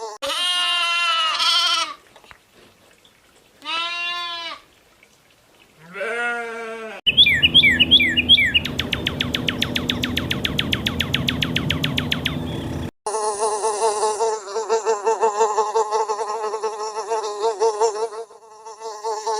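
A series of short animal-like sound effects: three separate bleat-like calls that rise and fall in pitch, a quick burst of falling chirps, a few seconds of fast rattling pulses, then a long steady buzz with a wavering pitch like a fly's.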